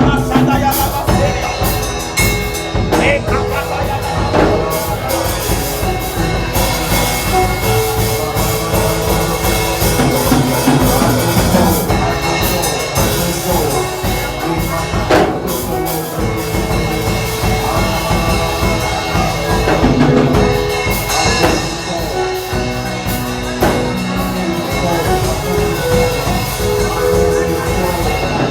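Live church band music: a drum kit keeping a steady beat under held keyboard chords, with voices over it.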